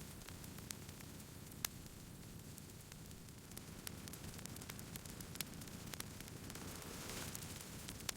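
Wood campfire crackling: irregular sharp pops and snaps over a low, steady rush of burning, with a brief swell of hiss near the end.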